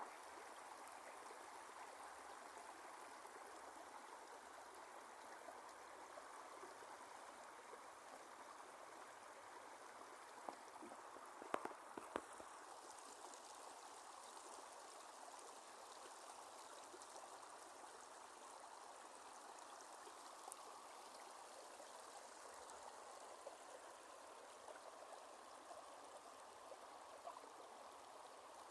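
Fast-flowing river water rushing steadily and faintly, with a brief cluster of sharp clicks or knocks a little before halfway through.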